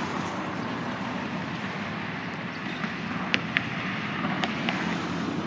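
A vehicle engine running steadily with road and traffic noise, a low rumble without a siren. A couple of sharp clicks come about three and a half seconds in.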